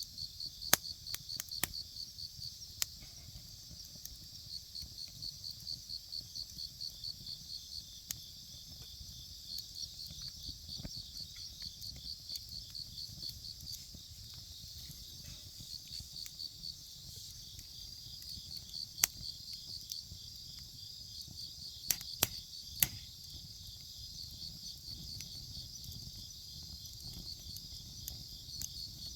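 Crickets or other night insects chirping in a steady, rapid pulsing trill, with scattered sharp pops and crackles from a wood bonfire, the loudest a single pop about nineteen seconds in and a cluster of three around twenty-two seconds in.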